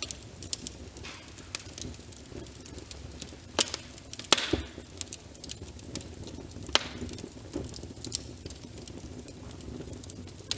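Wood fire crackling with frequent sharp pops over a steady rain hiss, with a couple of louder cracks near the middle.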